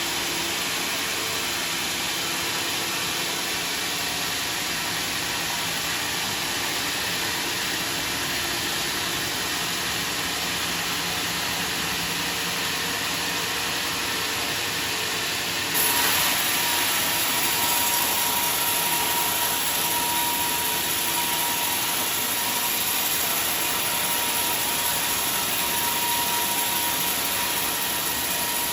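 Sawmill saw running steadily. About halfway through it gets louder and a steady high whine comes in, which holds to the end.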